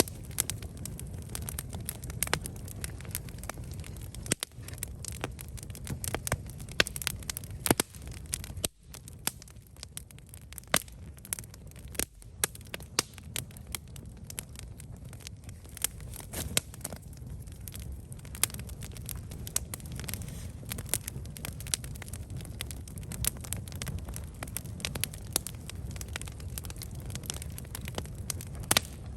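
Campfire burning, with frequent irregular sharp crackles and pops from the wood over a steady low rush of the flames.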